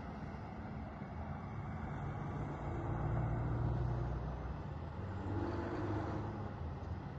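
Motor vehicle running: a steady low engine hum with road noise that swells and eases a little a few times.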